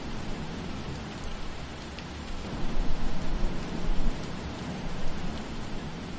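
Steady rain falling, a dense even hiss with a few faint drop ticks. Under it runs a low rumble that swells in the middle.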